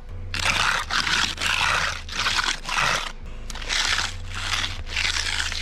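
A concrete float scraping over the wet slab surface in repeated strokes, about two a second.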